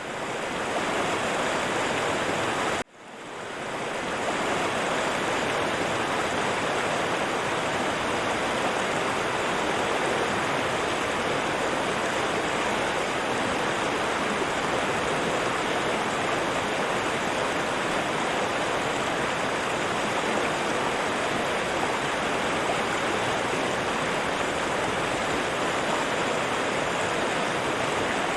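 River water rushing and flowing steadily. About three seconds in, the sound cuts out for an instant and then fades back up over about a second.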